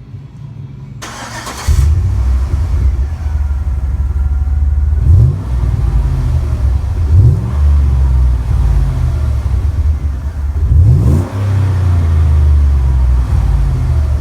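2011 Chevy Suburban's V8 starting: a brief crank about a second in, then the engine catches and idles with a deep exhaust rumble through a Magnaflow muffler and the stock resonator, blipped up in revs three times.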